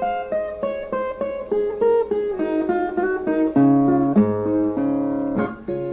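Brazilian viola playing an instrumental break: a picked single-note melody, with lower bass notes joining about halfway through.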